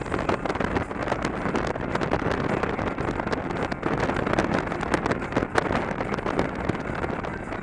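Wind buffeting the microphone of an action camera on a moving motorcycle, a steady rushing noise with constant gusting crackle, over a Victory V-twin engine running at cruising speed.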